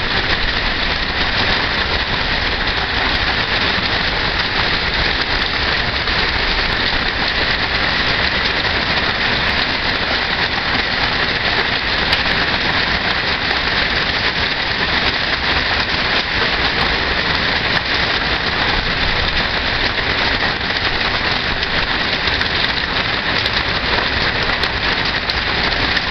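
Heavy rain falling steadily on trees and ground, an even hiss that does not let up.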